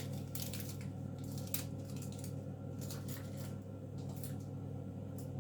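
Light clicks and small handling noises from kitchen work with eggs and plastic egg-dyeing shrink sleeves, over a steady low hum.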